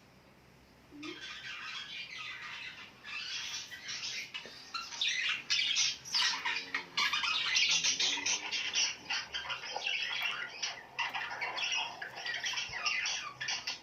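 A group of small birds chattering and squawking, a dense run of rapid, overlapping calls that starts about a second in and keeps going.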